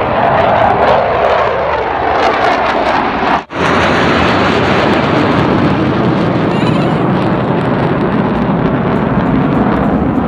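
Jet aircraft noise at an air show: a loud, steady roar of planes flying overhead, broken by a sudden short gap about three and a half seconds in, where two shots are joined.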